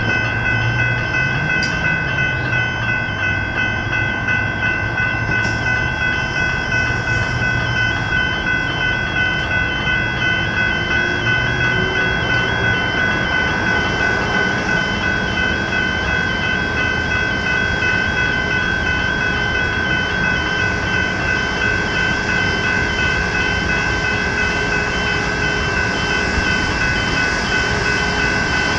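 General Signals electronic level-crossing bells ringing continuously in a rapid repeating ding, while a train runs through the crossing beneath them.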